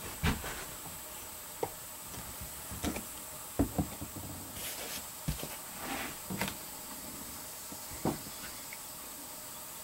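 Scattered light clicks and knocks of handling, about nine over several seconds, over a faint steady hiss.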